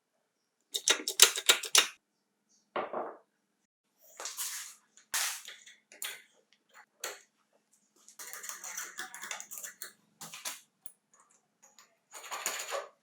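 Hand work on small metal parts: a quick run of sharp clicks about a second in, a short scrape, then scattered groups of clicking and clatter.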